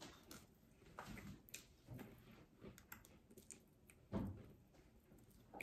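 Faint close-up eating sounds: a man nibbling and chewing crispy fried chicken off the bone, with scattered soft clicks and smacks and one louder thump about four seconds in.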